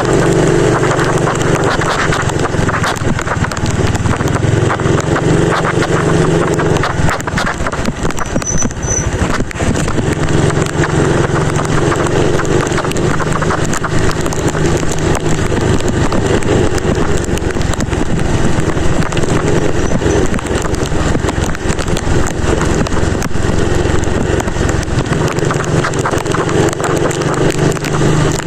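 Motorcycle riding in heavy rain: a steady low engine and road hum under a dense rush of wind and rain noise, with countless small taps of raindrops striking the microphone.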